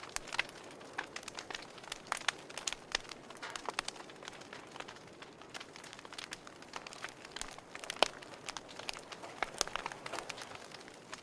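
Wood fire burning in a fireplace, crackling: irregular sharp pops and snaps over a soft steady hiss, with one louder pop about eight seconds in.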